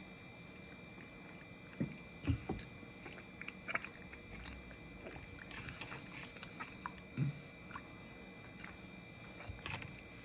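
Quiet mouth sounds of a man chewing and swallowing a mouthful of blueberry muffin, with a few soft knocks and clicks scattered through.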